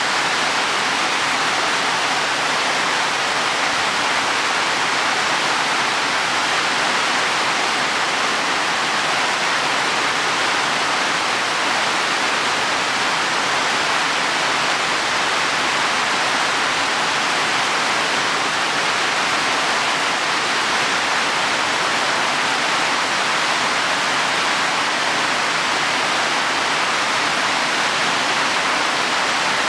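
Heavy rain falling steadily on leaves and soil, a dense even hiss with no breaks.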